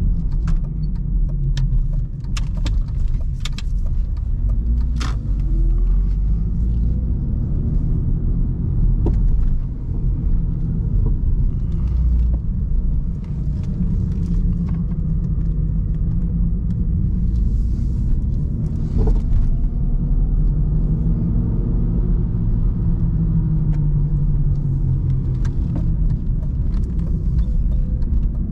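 A 1999 BMW 316i E46's four-cylinder petrol engine, heard from inside the cabin while driving, its note gliding up and down as the car pulls away and speeds up. Several sharp clicks or knocks come in the first few seconds.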